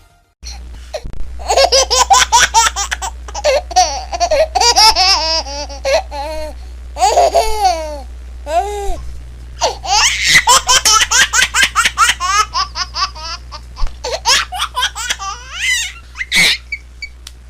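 A baby laughing in quick runs of giggles and squeals, over a steady low hum. The recording cuts to a new stretch of laughter about half a second in and again around nine seconds in.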